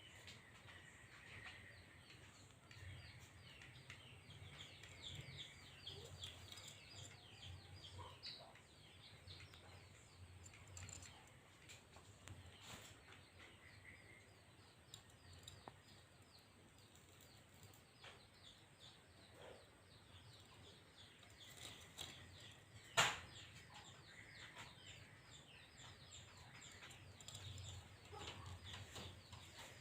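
Faint bird chirping: many quick, high, falling chirps in a steady stream, with a few held whistled notes, and one sharp click about 23 seconds in.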